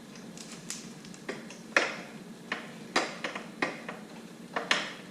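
Hand tools, sockets and a wrench, clinking and tapping against metal while a small exhaust clamp and mount are worked loose. The strikes are sharp and come irregularly, several a second at times and with short gaps between.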